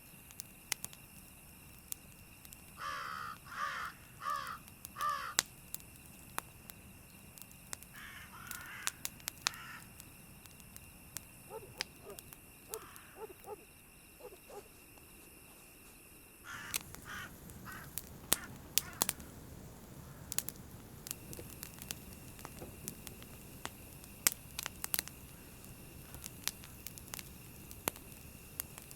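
A crow cawing four times in quick succession, then calling again a few seconds later, over the sharp crackling of a campfire. About halfway through, the background hiss rises.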